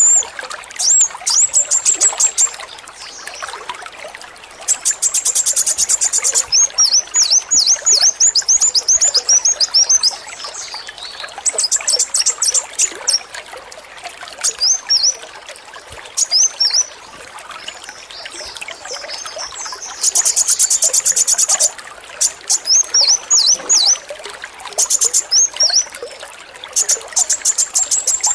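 Male kolibri wulung sunbird singing its rapid 'AK-47' song: very high, fast machine-gun trills lasting a second or two, alternating with runs of quick down-slurred chirps, over steady trickling water.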